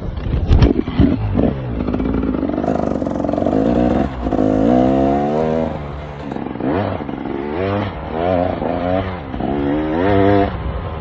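KTM EXC 300's single-cylinder two-stroke engine being ridden, its pitch climbing on the throttle and dropping back several times. There are a few loud knocks in the first second or so.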